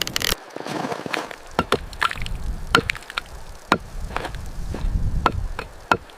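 A series of sharp knocks or cracks at an uneven pace, about one to two a second, some with a brief ringing pitch, over a low rumble.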